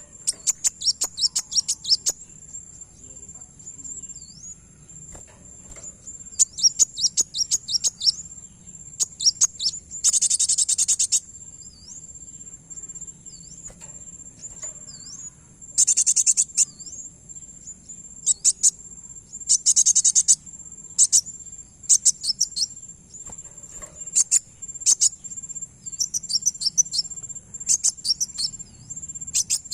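Kolibri wulung (kowul) sunbird calling: bursts of rapid, high-pitched chirps and twitters, with three fast buzzing trills around ten, sixteen and twenty seconds in. A steady, insect-like high whine runs underneath throughout.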